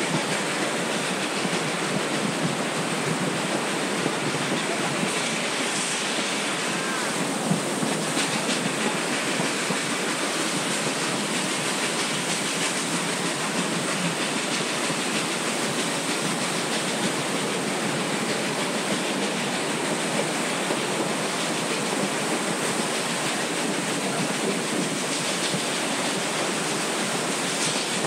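Steady rushing noise of a moving narrow-gauge train heard from on board, wheels running on the rails mixed with wind on the microphone.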